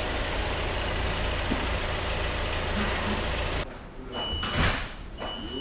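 Steady rumbling vehicle noise that cuts off abruptly about three and a half seconds in. After it comes a quieter stretch with a brief whoosh and a thin, steady high-pitched tone.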